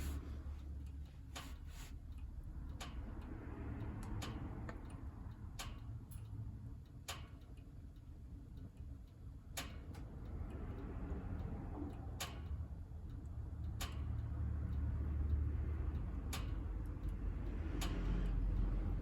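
Firewood burning in a wood stove: irregular sharp crackles and pops, roughly one every second or two, over a low steady rumble and a soft hiss of flame that swells and fades.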